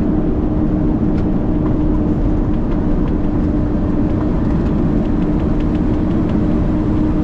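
Heavy truck driving, heard from inside the cab: steady engine and road noise with a constant low hum and a few faint ticks.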